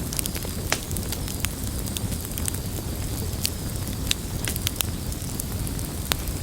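Campfire burning: a steady low rush of flame under irregular sharp crackles and pops from the burning wood, several a second.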